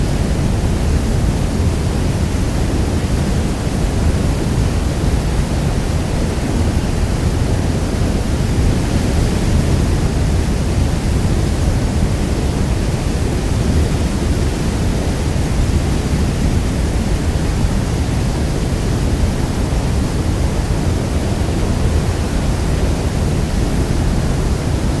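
Niagara Falls: a steady, dense rush of falling water, heaviest in the low end, with no separate splashes or changes.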